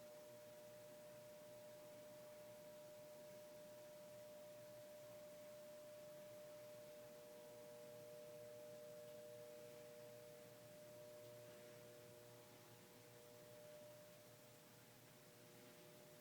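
Near silence, with a faint steady hum of a few held tones under a light hiss.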